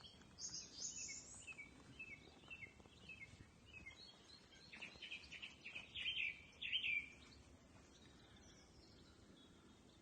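Evening chorus of garden songbirds: a high rising note, then a run of short repeated chirps, then a louder burst of song about five to seven seconds in. It thins to faint calls near the end.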